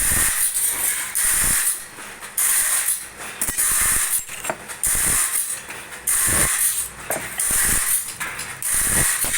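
Automatic bandsaw blade sharpening machine working tooth by tooth: a grinding hiss that swells and eases about every 1.3 seconds, with a click-and-thump as the feed pawl steps the blade on to the next tooth.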